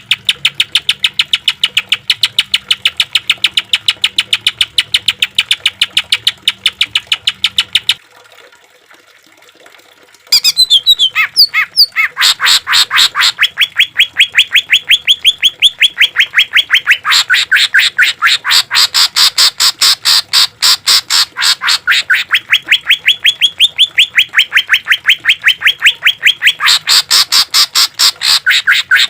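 Greater green leafbird (cucak ijo) calling in long runs of rapid, evenly repeated harsh notes, the rapid-fire 'tembakan' style. The runs break off for about two seconds a third of the way through, then start again, denser.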